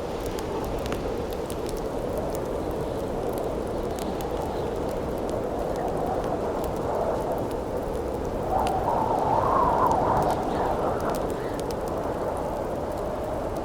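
Steady wind with a louder gust a little past halfway, over the scattered small pops and crackles of a campfire.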